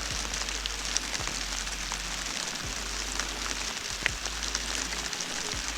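Steady rain falling on a lake's surface: an even hiss scattered with many small, sharp drop ticks.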